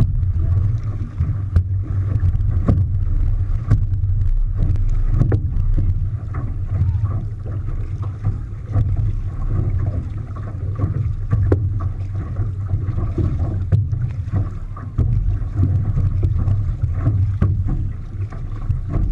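Water rushing and splashing around a moving outrigger canoe, with wind buffeting the microphone as a steady low rumble.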